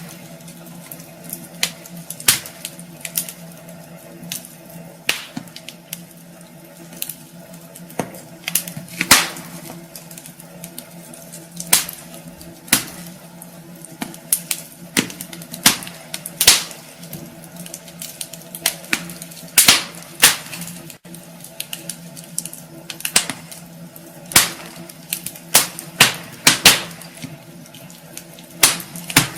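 Wood fire crackling in a fireplace: irregular sharp pops and snaps, a few every second and some much louder than the rest, over a faint steady low hum.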